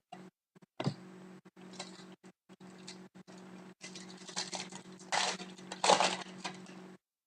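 Trading cards being handled and slid across one another: dry, scattered rustling and flicking, the two loudest a little past the middle, over a steady low hum.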